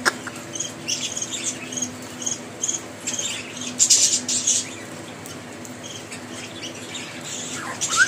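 Quick high chirps and clicks from birds, several a second for the first three seconds, then a brief louder noisy burst about four seconds in, over a faint low steady hum.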